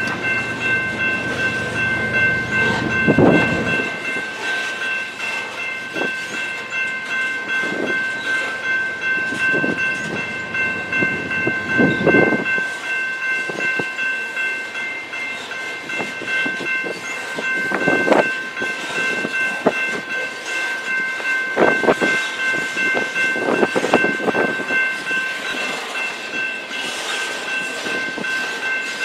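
BNSF train rolling past, its cars clattering and thumping irregularly over the track, with a steady high-pitched whine running throughout. A low rumble fades out about four seconds in.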